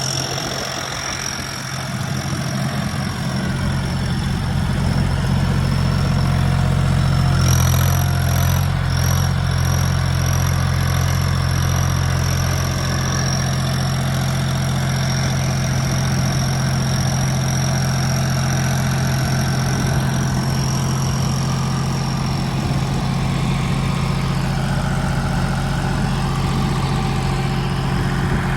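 Diesel tractor engine running steadily at a low idle, growing louder over the first several seconds and then holding even, with a thin steady high-pitched whine above it.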